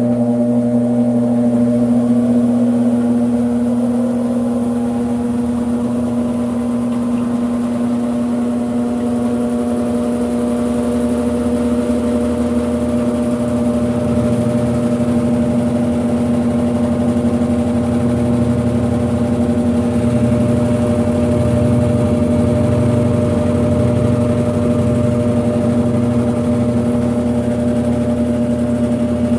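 Brastemp 5 kg washing machine on its spin cycle: a steady motor hum with a few held tones, and a faint whine that rises slightly over the first few seconds.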